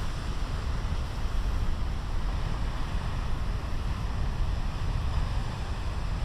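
Steady rumble of big ocean surf breaking, with wind buffeting the microphone.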